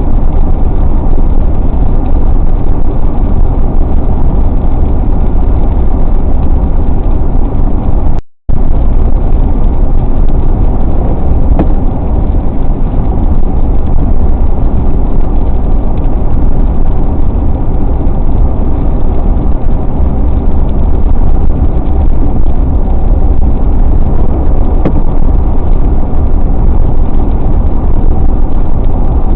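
Steady, loud road and engine noise of a car driving at highway speed on a wet road. The sound drops out completely for a moment about eight seconds in.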